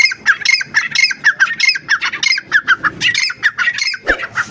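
Grey francolin calling: a fast, unbroken run of short, high repeated notes, several a second. A brief low thud comes about four seconds in.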